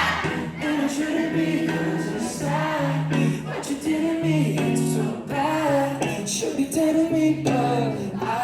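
Live pop band performance: a single lead vocal melody sung over long held low bass notes, heard through a concert hall's sound system.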